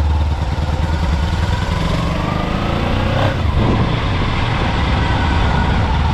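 Kawasaki motorcycle engine running with a strong, pulsing low rumble, its pitch rising slowly, with a brief swoop in pitch about three seconds in.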